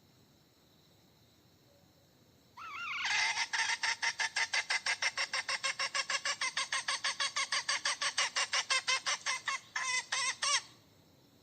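Domestic hen cackling: a long run of rapid, evenly repeated calls, about six a second, starting a couple of seconds in and ending with a few slower calls. The uploader tags it as a hen calling for a mate.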